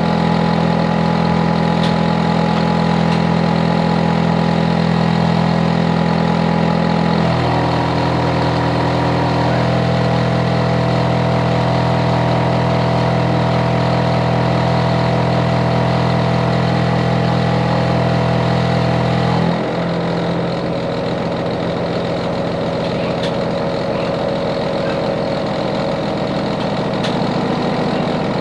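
Hitachi air conditioner outdoor unit running loudly with a steady, deep mechanical hum. Its pitch shifts abruptly about seven seconds in, then drops again about twenty seconds in, where it gets a little quieter. It is a neighbour's unit, complained of as a noise problem.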